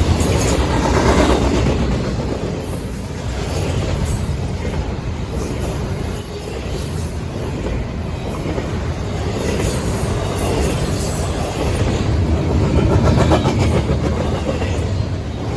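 Intermodal freight train cars rolling past: a steady rumble of steel wheels on rail with clicks as the wheels cross rail joints, swelling about a second in and again near the end.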